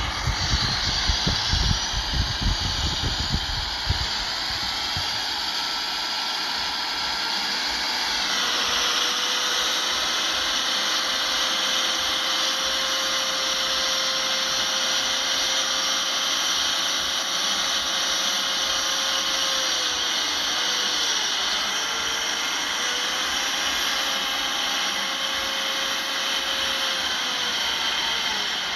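Steady mechanical whine with a held tone that dips briefly about twenty seconds in. Low rumbling knocks come in the first few seconds.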